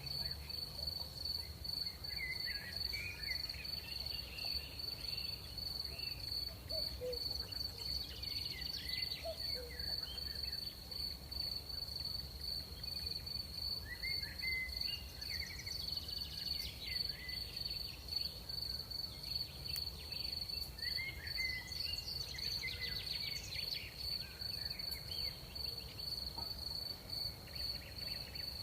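Crickets trilling in one steady, unbroken high tone, with short chirping calls coming in every few seconds over a low, even rumble of night air.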